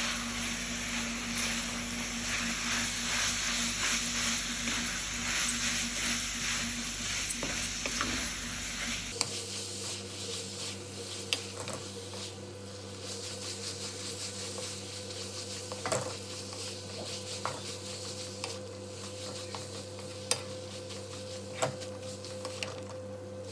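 Schezwan noodles and vegetables sizzling in a hot pan as they are stirred and tossed. About nine seconds in the sizzle drops away abruptly, leaving quieter stirring with occasional sharp taps of the utensil on the pan.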